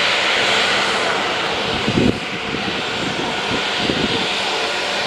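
An airliner's engines running with a steady loud roar. A couple of low thumps come about two and four seconds in.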